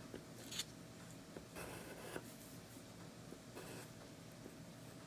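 Pencil scratching on paper in short strokes, drawing lines, with a brief louder stroke about half a second in and a longer stretch of strokes near the middle.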